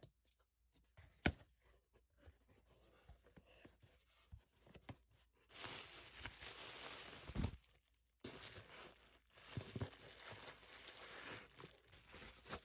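Slime being pressed and pulled apart by hand, giving soft crackly tearing sounds, with a sharp click about a second in and longer crackling stretches from about halfway.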